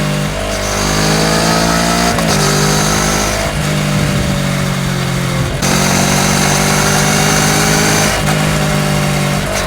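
Kawasaki Ninja 650's parallel-twin engine running through a full Akrapovič exhaust while under way, its note changing pitch and breaking off several times.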